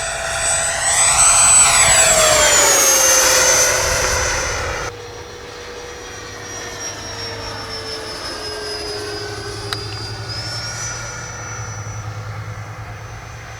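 Electric ducted fan of a large RC model jet, an FMS 80 mm unit, whining loudly on a low pass, its pitch falling as it goes by. About five seconds in the sound drops suddenly to a fainter, steady whine as the model flies on.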